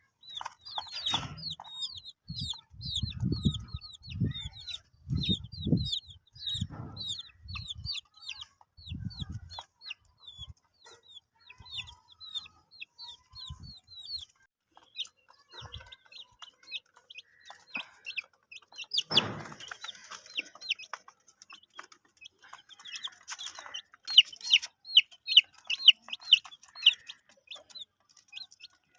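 Baby chicks peeping: rapid high chirps that each drop in pitch, several a second, with a short pause near the middle and the busiest stretch near the end. A series of low thuds sounds in the first ten seconds, and a brief noisy burst comes about two-thirds of the way through.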